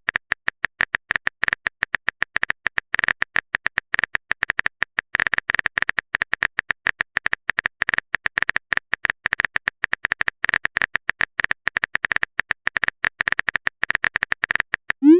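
Typing sound effect: a fast, irregular run of short keyboard clicks with no real pauses.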